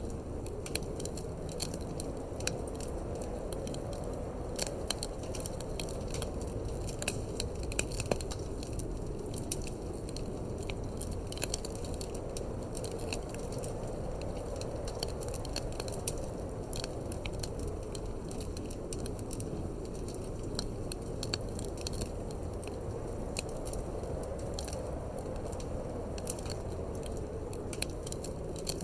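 Wood fire crackling in a fireplace, with many irregular sharp pops, over a steady low rumble of wind.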